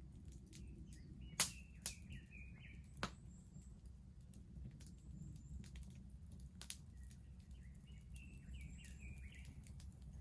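Wood bonfire crackling, with sharp pops, the loudest about a second and a half in, over a steady low rumble of the burning fire. A songbird sings two short warbling phrases in the background.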